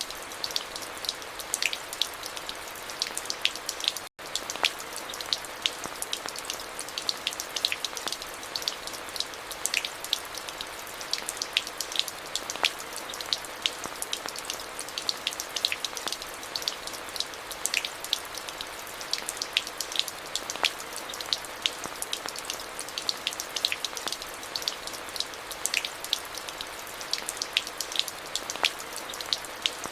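Steady rain: an even hiss with many separate drops ticking sharply on a hard surface. The sound cuts out for an instant about four seconds in.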